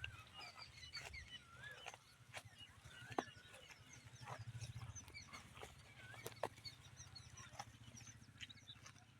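Goats eating feed, faint: scattered sharp crunching and chewing clicks over a low steady hum, with small high chirps throughout.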